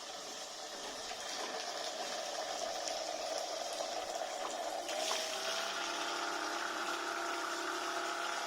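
Small homemade electric-motor water pump running with water noise. About five seconds in, its whine shifts in pitch and a lower hum joins it.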